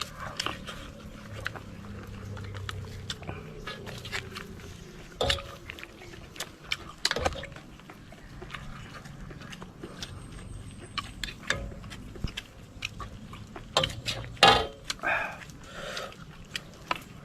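People eating: chewing and biting, with scattered sharp clicks and knocks of tableware; the loudest knock comes near the end.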